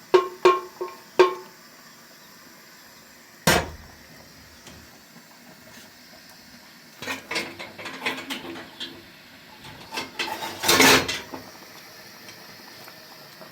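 Metal kitchenware clinking and clattering. Several quick ringing strikes come at first, like a spoon rapped on a pot. About three and a half seconds in there is one knock, then a run of clatter, with the loudest clatter near the end.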